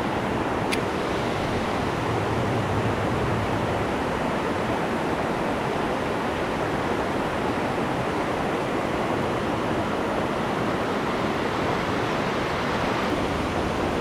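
Waterfall rushing, a steady even roar of falling water, with one faint click under a second in.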